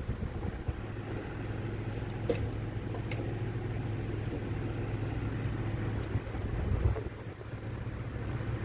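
The 2002 Fleetwood Storm motorhome's engine running with a steady low drone, started on starting fluid after sitting about eight years. A brief sharp tick sounds about two seconds in.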